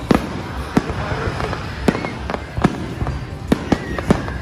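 Aerial fireworks display: shells bursting in sharp bangs, about eight of them at irregular intervals, over a steady wash of noise between the bangs.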